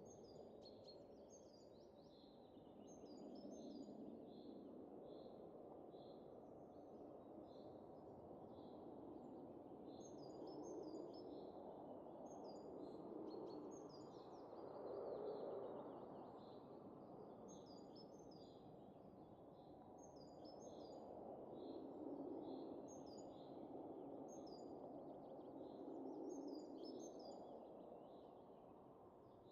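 Faint wind blowing in slow gusts that swell and ease every few seconds, with small birds chirping repeatedly over it.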